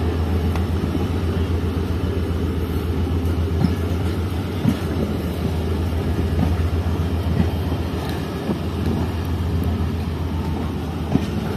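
Pakistan Railways Tezgam Express passenger coaches rolling slowly past while the train pulls out, a steady low rumble with a few scattered clanks from the wheels and couplings.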